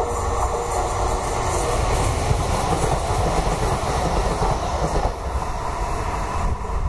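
TCDD E23000 electric multiple unit passing close by, its wheels running over the rails in a steady rush that dies away after about five seconds.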